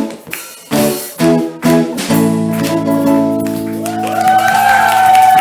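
Live band ending a reggae song: guitar and drums play a few short, sharp closing hits, then a final guitar chord rings out. Near the end a voice comes in over the chord with a held, sliding note.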